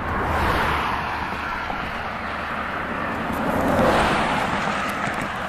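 Passing road traffic: tyre and road noise that swells as vehicles go by, loudest about a second in and again about four seconds in.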